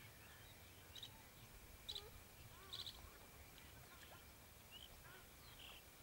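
Faint bird chirps over a low background rumble: three short bursts of high chirping about a second apart, then a few scattered thin calls near the end.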